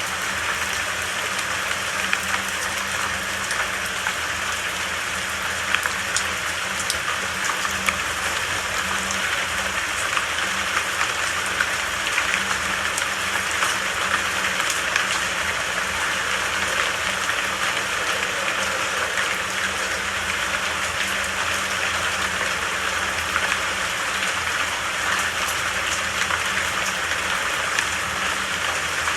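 Steady heavy rain, an even hiss with many scattered drop ticks and no change in strength.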